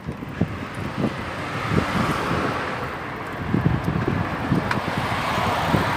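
Wind rumbling and buffeting on the microphone of a camera mounted on a moving bicycle, over the rush of road traffic going by.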